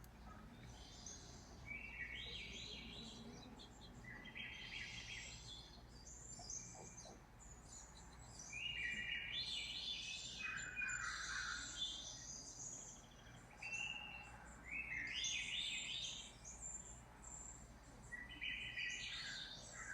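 Bird-like chirping: short, high, trilled calls repeating every second or two, thickest in the middle stretch, over a faint steady hum.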